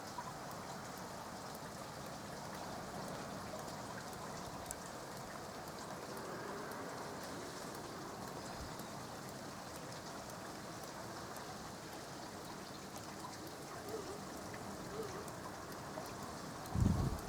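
Steady rain falling, a constant hiss with scattered drop ticks. Near the end comes a brief loud low thump.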